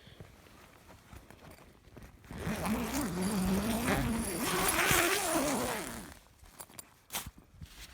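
Door creaking open on its hinges: one long, wavering creak lasting about three and a half seconds, starting about two seconds in and sagging in pitch as it ends, followed by a few sharp clicks.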